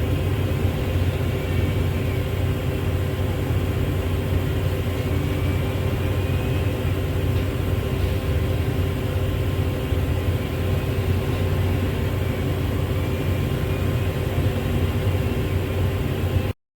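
Heavy diesel engine running steadily with a low, even drone; it cuts off suddenly near the end.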